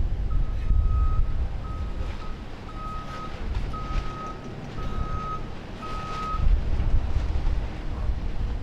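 Vehicle reversing alarm beeping six times, about once a second, each beep a single steady tone, over a low rumble.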